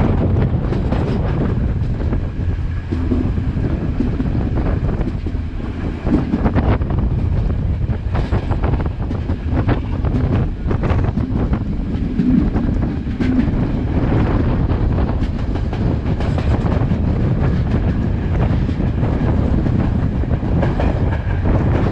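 Passenger train running along the track, heard from the carriage: a steady rumble of wheels on rails with irregular clacks over the rail joints, and wind buffeting the microphone.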